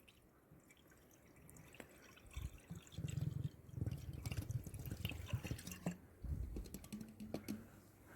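Engine flush glugging out of its can into the oil filler neck, in irregular gurgling bursts that start about two seconds in.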